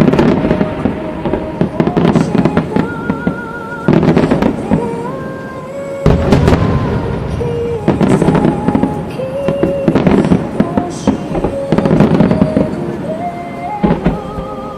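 Aerial fireworks bursting and crackling in quick succession, with music playing underneath.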